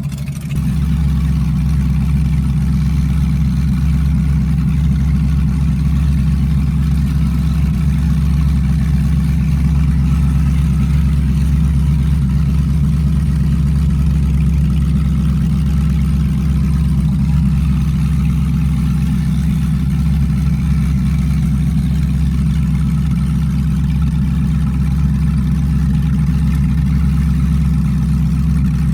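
LS-swapped Crown Victoria's V8 idling steadily while it warms up, a deep even rumble with no revving.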